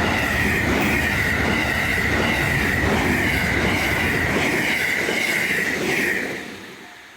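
A train running past at close range: a steady, loud rumble of wheels on rail with a high steady whine, fading away about six seconds in.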